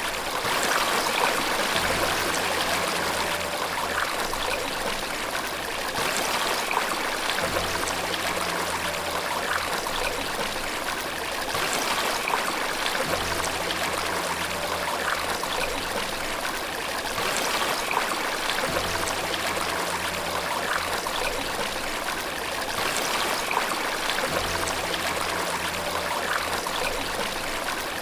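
Running water from a waterfall, a steady rushing and trickling. Faint low tones come in and fade about every five to six seconds underneath.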